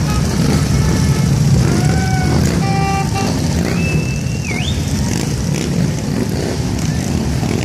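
A mass of motorcycles riding past, their engines making a steady, dense low rumble. A few brief higher-pitched tones, one ending in a quick rising whistle, sound over it in the middle.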